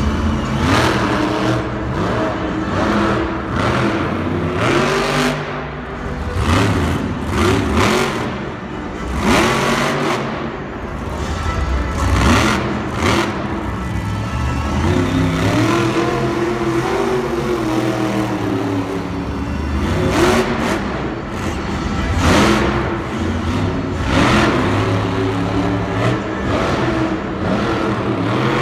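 Monster truck engines revving hard and repeatedly, the pitch climbing and dropping with each burst of throttle, over steady engine noise.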